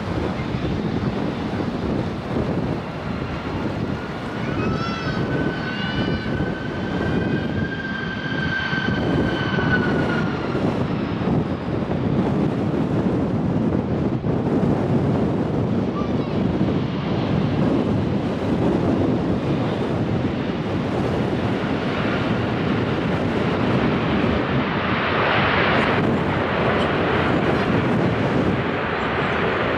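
Jet airliner engines passing, with a high whine that swells and fades over several seconds and a louder rush of engine noise near the end, all under heavy wind buffeting the microphone.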